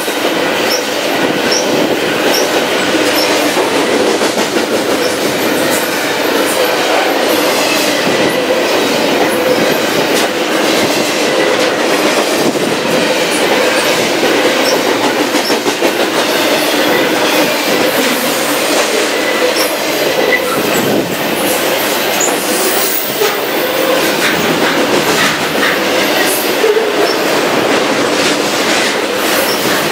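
Double-stack intermodal freight train's well cars rolling past close by: a loud, steady rumble of steel wheels on rail, with rapid clicking from the wheels over the rail joints and a faint steady squeal underneath.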